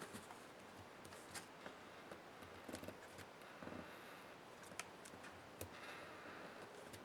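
Faint, scattered clicks, taps and light scraping of small parts and tools being handled during a laptop teardown.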